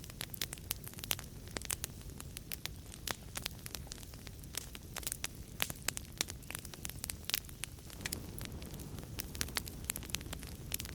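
Wood fire burning in a fireplace, with frequent irregular sharp crackles and pops over a steady low rumble and hiss of the flames.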